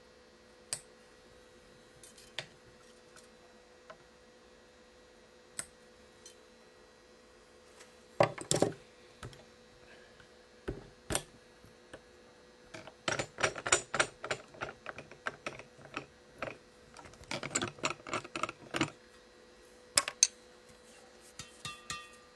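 Sharp ticks, then bursts of rapid clicking and rattling from the parts of a badminton stringing machine as a freshly strung racket is unmounted: small metal and plastic mounting supports and clamps being loosened and moved. The clicks come singly at first, then in three quick clusters through the second half.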